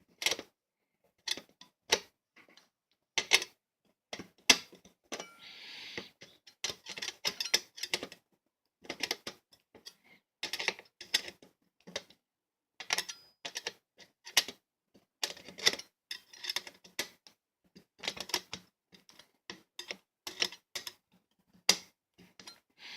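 A butter knife used as a screwdriver clicking and scraping in the head of a tight box-fan screw as it is turned. The sound is a series of short, irregular clicks with one longer scrape about five seconds in.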